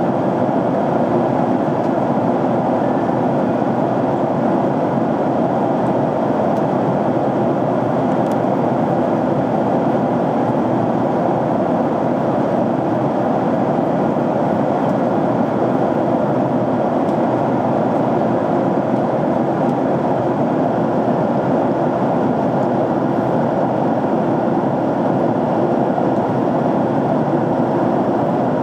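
Steady cabin noise of a jet airliner in flight: an even, unbroken rush of engine and airflow sound.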